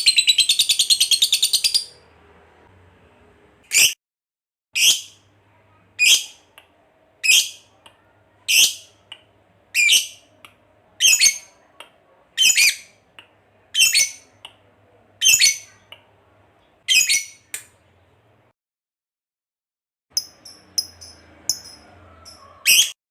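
Lovebird calling. A fast chattering trill ends about two seconds in. It is followed by about a dozen sharp, high single calls spaced a little over a second apart, then, after a short pause, a few brief chirps and one more loud call near the end.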